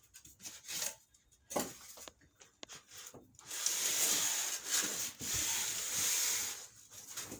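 A refrigerator scraping against its cardboard packing as it is worked out of its box. A few light knocks come first; then, about halfway in, a rough rubbing noise runs for about three seconds.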